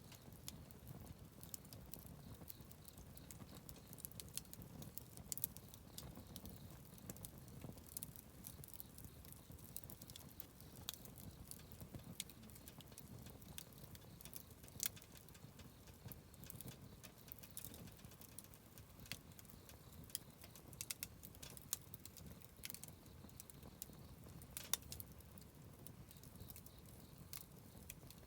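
Wood campfire crackling: irregular sharp snaps and pops over a soft low rumble of burning. The loudest pops come about five seconds in and near the end.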